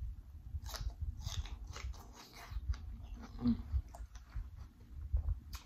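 Close-up chewing of a sauce-dipped raw red bell pepper slice: irregular crisp crunches and wet mouth smacks.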